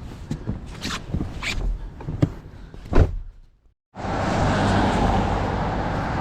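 Scattered footsteps and handling knocks, with one loud knock about three seconds in; after a brief silent break, steady car and traffic noise.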